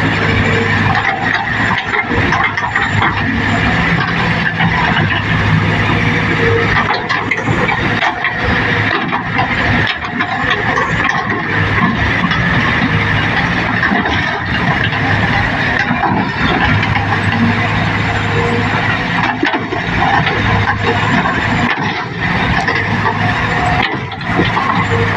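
Heavy diesel earthmoving machinery running steadily at working load, with frequent short metallic clanks and rattles.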